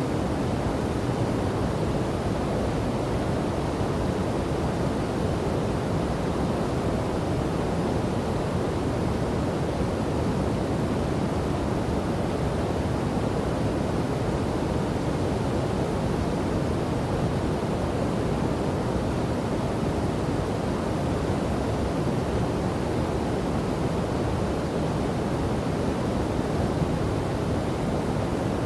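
A river and waterfall rushing steadily: a deep, even roar of water with no separate splashes or changes.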